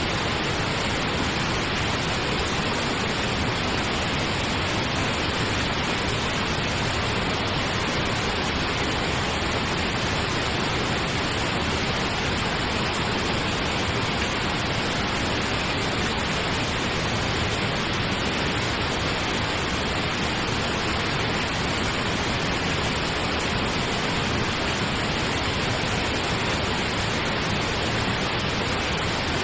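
Steady pink noise: an even, unchanging hiss across all frequencies, played continuously as a sleep aid.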